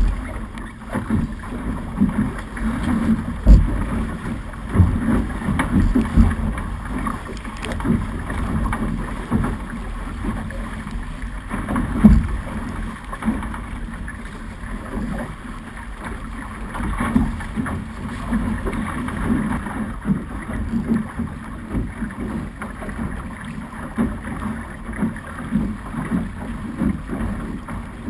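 Snipe racing dinghy under sail: water rushing along and slapping against the hull, with wind buffeting the camera's microphone in irregular low thumps.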